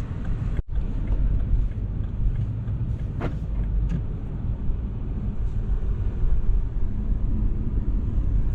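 Car interior road noise while driving: a steady low rumble of engine and tyres heard from inside the cabin, briefly cutting out just under a second in.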